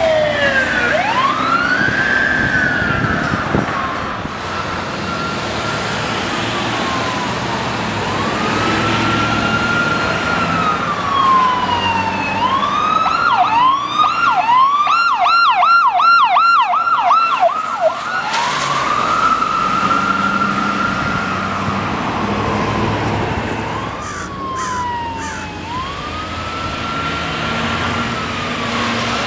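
Emergency vehicle sirens of vehicles responding code 3. An electronic siren wails in slow rising and falling sweeps, switches to a fast yelp of about three cycles a second for several seconds midway, then goes back to the wail, over vehicle engine and road noise.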